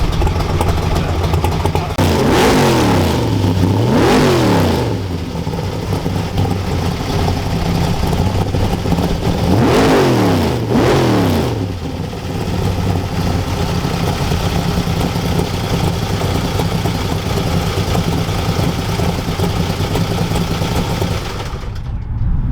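Car engines idling steadily, with the engine pitch sweeping down and back up twice, a few seconds in and again about halfway, as cars rev and pull away.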